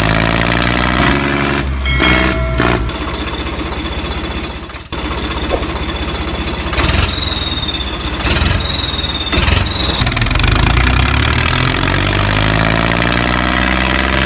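Vehicle engine running, its pitch rising and falling as it revs, with a few short knocks and a thin high whine from about seven to ten seconds in.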